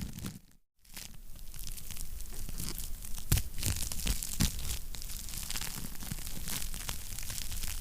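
Wood fire crackling in a fireplace, a steady bed of small crackles with a few louder pops. It cuts out to silence for a moment just under a second in, then resumes.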